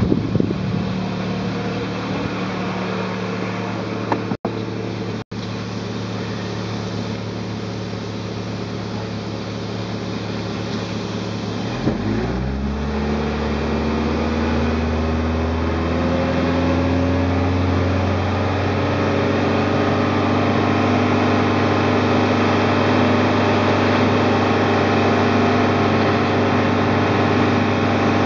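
Toyota 4A-GEU 1.6-litre twin-cam inline-four engine of an AE86 running steadily. About twelve seconds in its note drops, then slowly climbs and settles into a steady, somewhat louder run.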